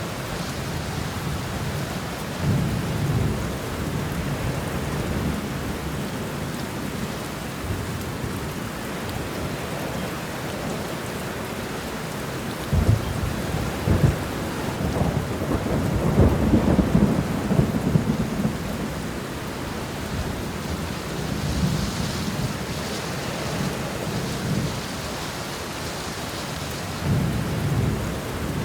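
Steady heavy rain with rolling thunder: low rumbles swell up several times, the longest and loudest a few seconds long about halfway through.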